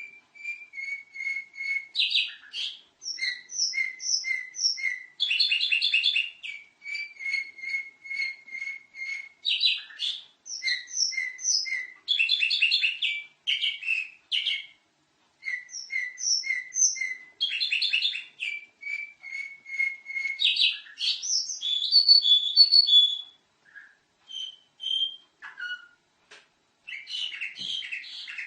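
Domestic canary singing continuously and energetically, a long varied song of fast runs of repeated high chirps and rapid trills, broken by a few short pauses.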